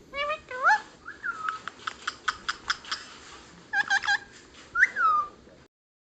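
Bird calls: a quick series of sharp clicks mixed with whistled notes that slide up and down, stopping abruptly near the end.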